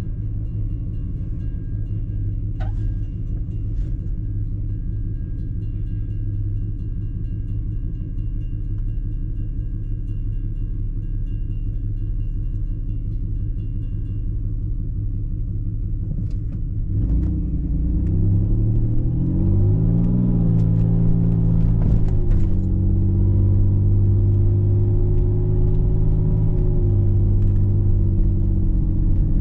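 Car driving: a steady low engine and road rumble. About 17 s in, the engine note climbs as the car accelerates, then settles into a louder, even drone.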